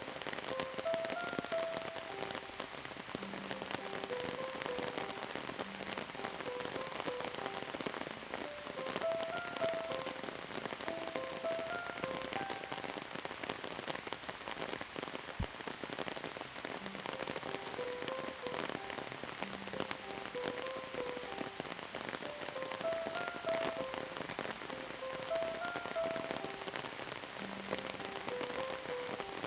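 Steady rain falling, with dense fine drop patter, overlaid by a soft repeating melody of short notes.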